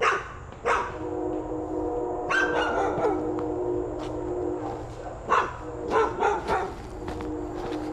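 A dog barking and yipping repeatedly, with a cluster of quick barks past the middle, over the steady hum of a car engine idling.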